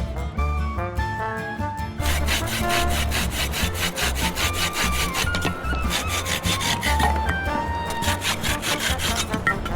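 Wood being cut with a hand saw in fast, even strokes, starting about two seconds in, over background music with a pulsing bass.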